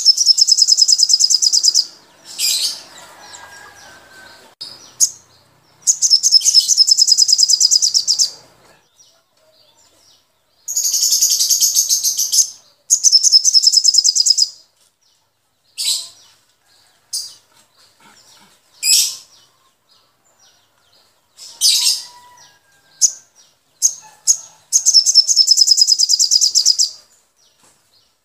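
Cage birds singing: bursts of rapid, high chattering trills about two seconds long, five times, with short sharp single chirps between them.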